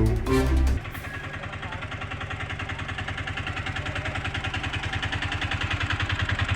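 Music ends under a second in, then a small vehicle engine runs with a steady, rapid pulsing beat that grows gradually louder.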